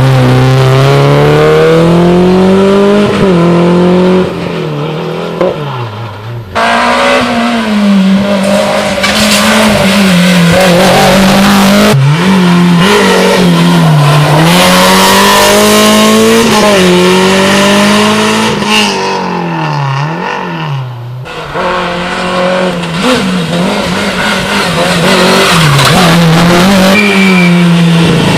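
Rally cars at full attack on a special stage: engines revving hard, pitch climbing and dropping sharply with gear changes and lifts off the throttle. Several passes are strung together, with abrupt cuts about a third of the way in, near the middle and about three-quarters through.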